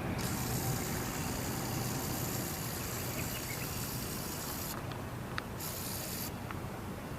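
A camcorder's zoom motor whines high and hissy, starting abruptly at the outset and stopping about four and a half seconds later, then running again briefly near the end. Under it is a steady low background rumble.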